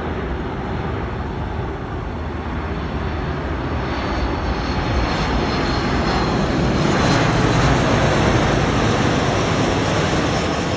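Jet engines of a Flydubai Boeing 737 on landing approach: a steady, broad jet noise that grows louder, is loudest about seven to eight seconds in, and then eases a little as the plane passes.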